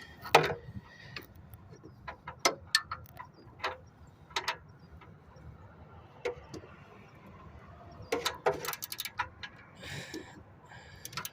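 Hand tools clicking and knocking on metal as a ratchet and socket are worked on a seized oxygen sensor. The clicks are scattered, with a quick cluster of them about eight seconds in.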